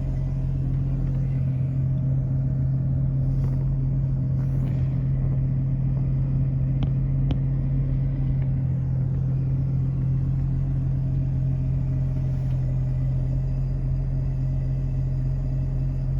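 Steady low hum of a car's idling engine heard from inside the cabin, with a couple of faint clicks about seven seconds in.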